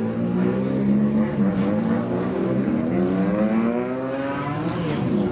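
Car engine of a customized Japanese kaidō racer or old car, revving, its pitch falling and rising, with a long steady rise in the second half.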